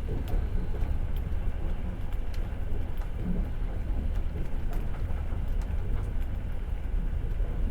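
Steady low rumble of a moving passenger train carriage running on the rails, heard from inside the carriage, with scattered faint clicks and rattles.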